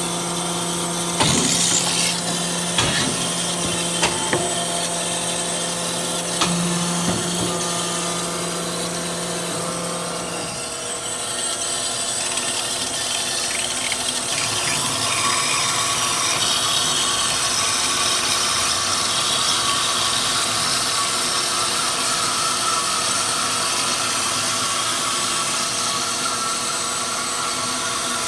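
Amada 250 metal-cutting band saw machine at work. For about the first ten seconds there is a steady low hum with several sharp clanks from the machine, then the hum stops and a steady sawing noise runs on as the blade cuts.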